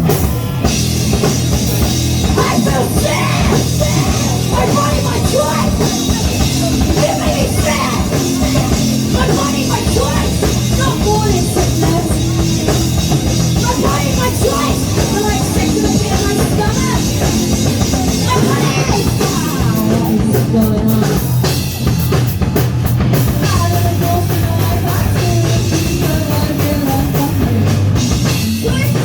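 Live punk rock band playing loudly, with a full drum kit driving the song.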